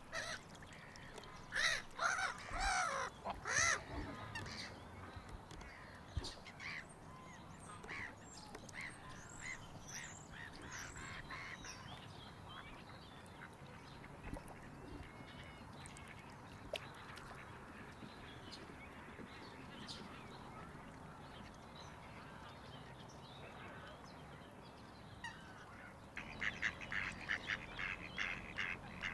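Waterfowl calling: a burst of loud calls about two seconds in, scattered fainter calls after, and a quick run of calls near the end.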